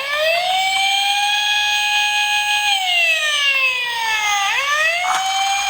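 Electronic wailing siren of a toy emergency vehicle. It rises and holds, sinks slowly about three seconds in, then swoops back up and holds again.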